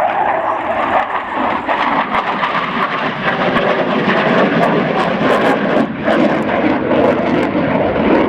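Fixed-wing aircraft in flight, its engine noise loud and steady as a dense rushing sound.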